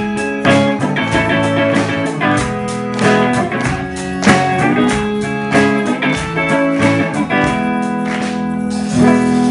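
Guitar-led music: the instrumental part of a song, with a steady run of plucked and strummed guitar notes.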